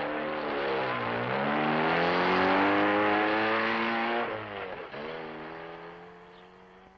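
Convertible car's engine accelerating as it pulls away. The pitch climbs, dropping back about a second in and again about five seconds in, then the sound fades as the car drives off into the distance.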